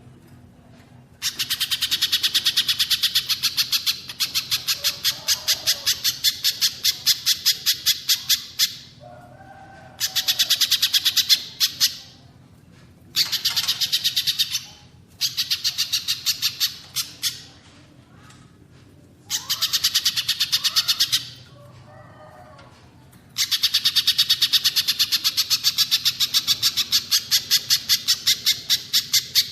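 Recorded birdsong of pijantung pisang (spiderhunter) and cililin: long runs of fast, evenly repeated high notes, coming in several bouts of a few seconds each with short gaps between. Fainter, lower calls sound in the gaps.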